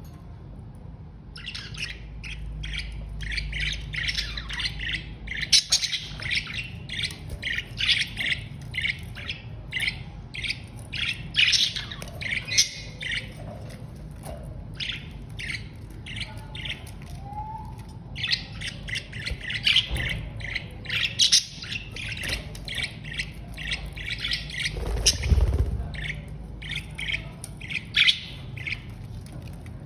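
Budgerigars chattering in a dense run of short, rapid chirps and squawks, which thins out around the middle and then picks up again.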